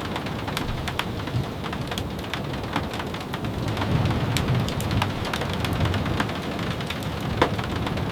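Steady rain falling on a surface, with many sharp scattered ticks and a low rumble that swells about four seconds in.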